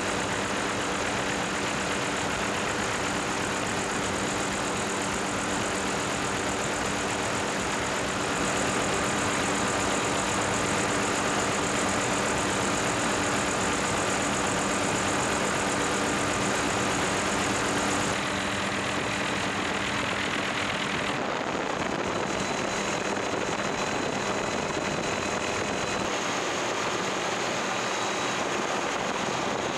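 Steady engine drone, an even hum of several tones with a hiss over it, which changes abruptly a few times.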